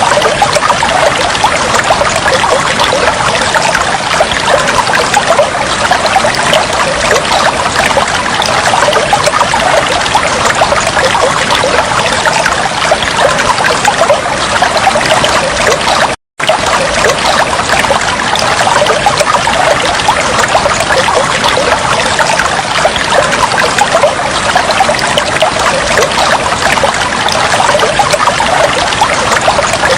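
Water trickling and flowing steadily, a dense bubbling rush. It cuts out completely for a split second about halfway through.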